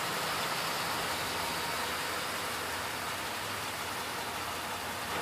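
Steady hiss over a low, even hum of an engine running at idle, easing off slightly.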